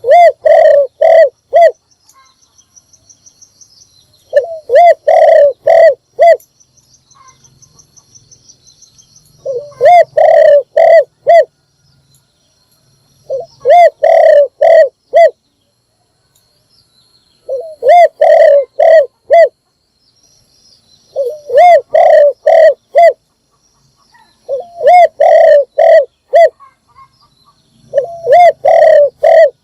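Spotted dove cooing: loud phrases of four or five coos, repeated about every four seconds.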